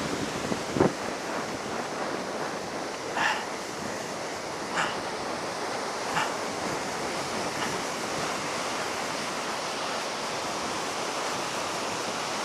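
Steady rushing wash of heavy surf, the sea still high after a typhoon, with wind on the microphone. A few brief soft crunches come at intervals of about a second and a half in the first half.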